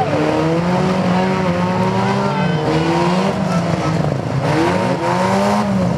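Several demolition derby cars' engines running and revving together, their pitches rising and falling independently, with tires spinning.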